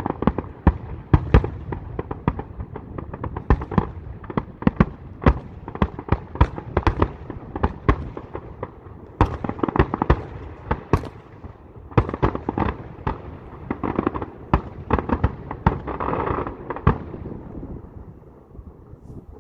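Fireworks finale: a rapid, irregular barrage of aerial shell bursts, several bangs a second, with a rumbling swell near the end before the bangs die away.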